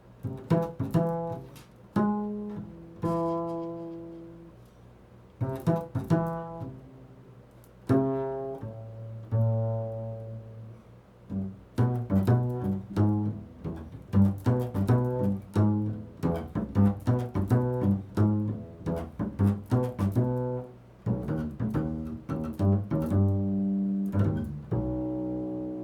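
Improvised solo music on a low-pitched string instrument: plucked notes that ring and fade, in short phrases with pauses at first, then a long stretch of quick notes in the middle, and a held note near the end.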